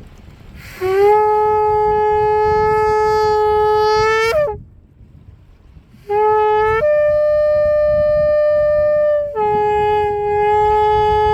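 Shofar blown in two long blasts. The first is a steady low note lasting a few seconds and ending in a quick upward squeak; the second starts on the same low note, jumps up to a higher note, then drops back to the low note, with a brief upward flick near the end.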